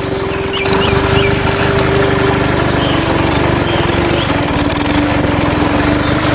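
Small motor of a homemade mini tractor with water pump running steadily, with a rapid rattle and a whine that shifts slightly in pitch.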